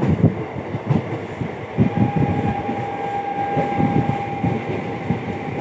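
Passenger train running along the track, its wheels knocking and rumbling over the rails, with a steady high whine that comes in about two seconds in.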